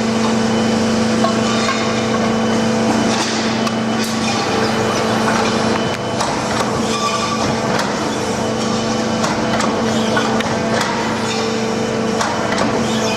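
CNC pipe bender working a length of steel exhaust tubing through a series of bends: a steady machine hum that breaks off and shifts a few times as the bends change, over a din of clicks and metallic knocks.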